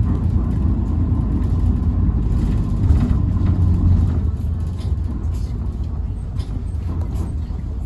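Tokyu Bus H854, a bus known for an unusual motor noise, running along with a steady low drone and small rattles, heard from inside the cabin. The drone eases off about four seconds in.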